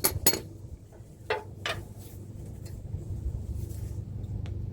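Metal hand tools and sockets clinking: four sharp clinks in the first two seconds, then only a steady low rumble.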